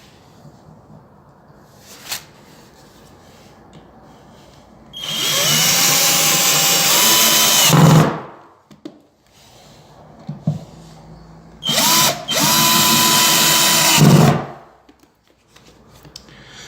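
Power drill driving screws through floorboards into the joists beneath, in two runs of about three seconds each, its whine rising as it spins up and then holding steady before stopping. The screws are pulling the boards tight to cure the floor squeak.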